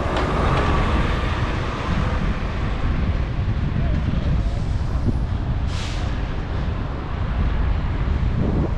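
Wind rushing over an action camera's microphone while cycling through city traffic, a steady low rumble throughout. A short hiss cuts through about six seconds in.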